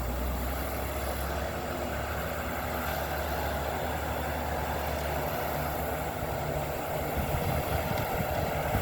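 Heavy diesel earth-moving machinery running steadily at a distance, a continuous low engine rumble.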